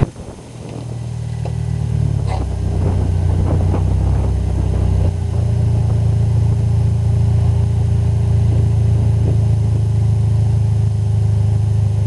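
Mitsubishi Eclipse's engine running at a low, steady speed. It grows louder over the first two seconds, and its note shifts about two and five seconds in before holding steady.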